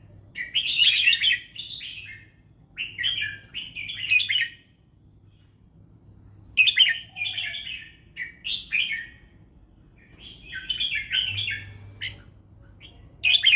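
Red-whiskered bulbul singing: about six short, loud warbling phrases, each a second or two long, with brief pauses between them.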